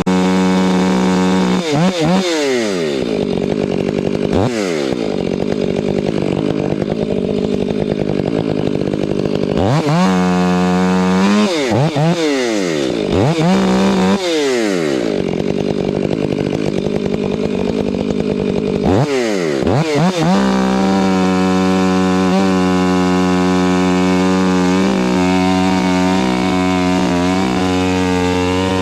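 Chainsaw run at high revs, cutting silver maple wood. Its pitch dips sharply and climbs back again several times, then holds steady at full speed for the last third.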